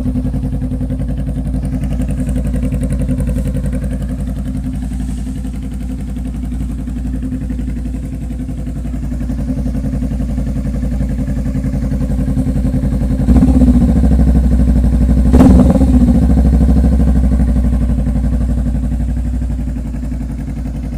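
Honda Rebel motorcycle with a Vance & Hines aftermarket exhaust idling steadily, then blipped twice on the throttle about two-thirds of the way through, the second rev the loudest, before settling back to idle.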